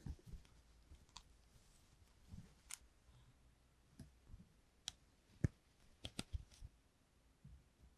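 Scattered soft clicks and taps of small tools being handled, with a quick run of several clicks about six seconds in and a few soft low thumps.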